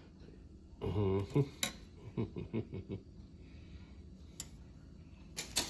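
Plastic model-kit parts being handled: sharp clicks and short rattles of plastic pieces and bags, the loudest click near the end. A short low hum from a voice about a second in.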